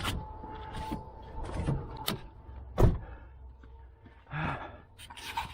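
A series of separate sharp metallic knocks and clanks, the loudest about three seconds in, from tools and parts being handled while the suspension is taken apart. A faint steady tone sounds during the first two seconds.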